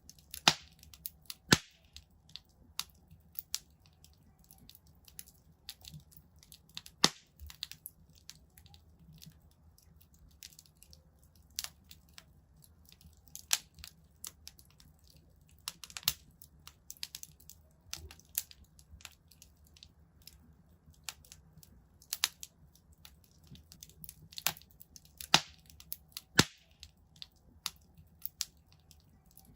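Fire crackling in a fireplace: irregular sharp pops and snaps, several much louder than the rest, over a faint steady low rumble.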